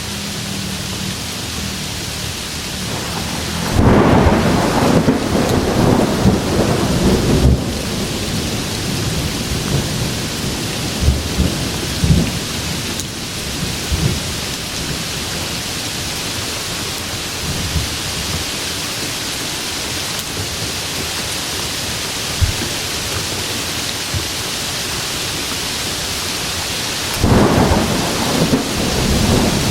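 Steady heavy rain with thunder: a long rolling rumble of thunder about four seconds in, a few sharp cracks over the next several seconds, and another rumble near the end.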